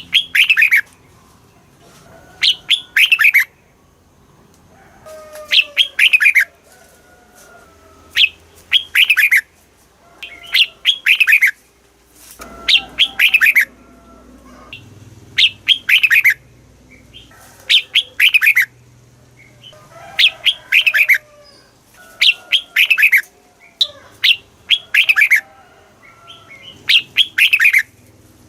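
Red-whiskered bulbul singing: short phrases of a few quick, downward-sweeping whistled notes, repeated about every two seconds.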